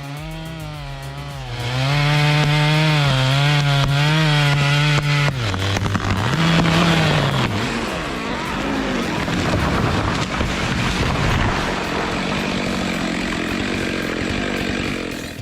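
Stihl MS 462 two-stroke chainsaw running at high revs, then biting into oak about two seconds in: louder and harsher as the chain cuts. The engine pitch sags under load a few times and recovers, and the cutting stops near the end.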